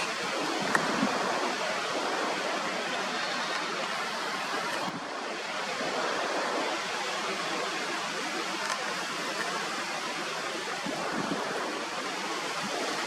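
Wind blowing steadily: an even rushing hiss without breaks.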